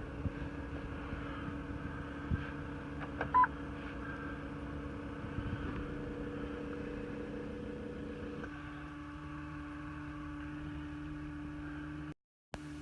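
A steady low hum with one short beep about three and a half seconds in; part of the hum drops away about eight and a half seconds in, and the sound cuts out for a moment near the end.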